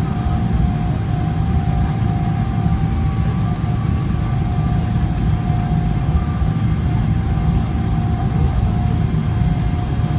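Cabin sound of a Boeing 777-300ER's GE90 engines at taxi thrust: a steady low rumble with a held whining tone, and a fainter higher tone that comes and goes.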